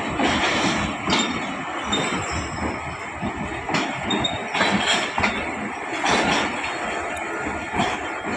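Railway coaches rolling slowly on station track: a steady rumble broken by irregular clanks and knocks from wheels over rail joints, with some wheel squeal.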